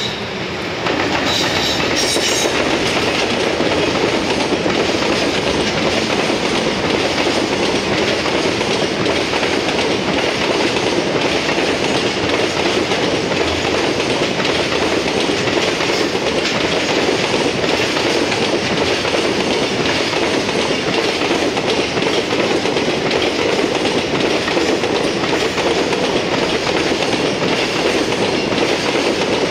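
JR Freight train hauled by an EF210 electric locomotive rolling past, its wagon wheels clattering steadily over the rail joints. The sound gets louder about a second in as the train arrives, then holds steady.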